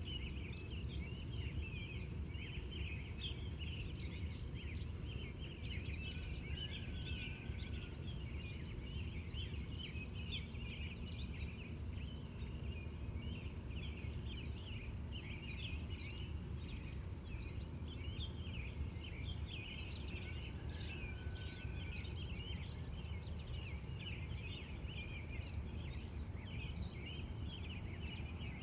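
Pre-dawn chorus: a steady high insect trill with dense, continuous chirping of crickets and birds, over a low steady rumble. A bird gives a brief, lower call twice.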